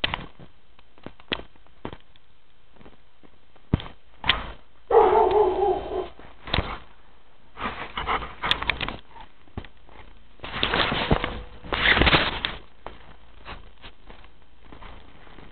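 Golden retriever puppy moving about in snow: scattered knocks and longer bursts of rough scuffling noise, with one short dog cry about five seconds in.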